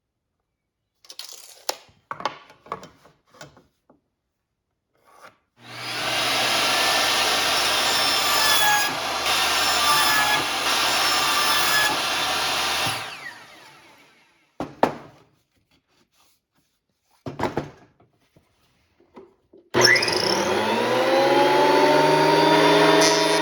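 Electric woodworking power tool working wood: it runs for about seven seconds and winds down, a few knocks follow, and then it spins up again and keeps running.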